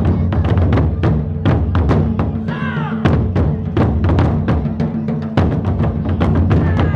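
Japanese taiko drums in a kimen-daiko performance, struck in a fast, dense rhythm over a heavy low rumble. Brief shouted calls come through twice, about two and a half seconds in and near the end.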